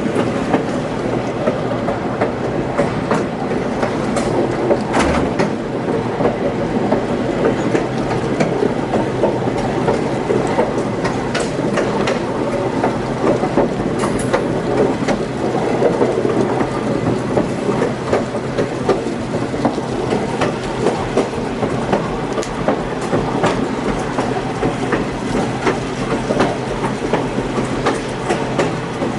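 Passenger train car rolling along the track: a steady rumble with irregular clicks and knocks from the wheels over rail joints.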